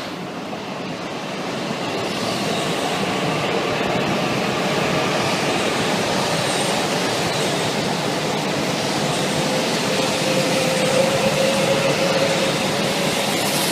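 A Shinkansen train moving along the platform. The rolling noise grows louder over the first few seconds and then holds steady, with a faint held whine underneath.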